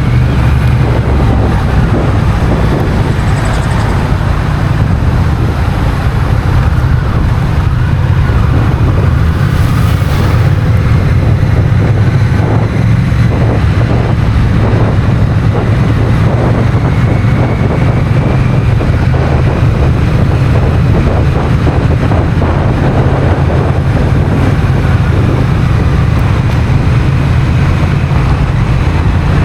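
Honda CMX1100 Rebel's parallel-twin engine running steadily while riding, with wind noise on the microphone.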